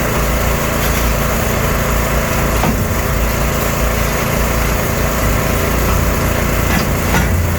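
Diesel engine of a 0.7-class semi-long-reach hydraulic excavator running steadily while demolishing a building's structural frame, with two sharp knocks, one about a third of the way in and one near the end.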